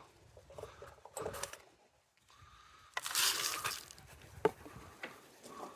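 Crushed bird-seed and suet mix being handled and poured into a bird feeder: soft scrapes and small clicks, a rustling rush of seed about three seconds in, and a sharp click about a second later.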